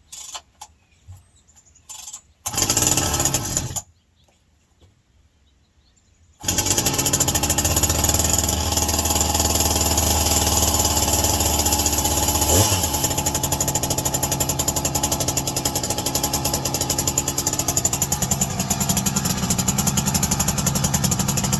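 Two-stroke chainsaw, freshly rebuilt with the base gasket deleted and the piston ported, being started on choke: after a few light clicks it fires for about a second and dies, then catches about six seconds in and runs steadily while warming up. Its note shifts lower about halfway through.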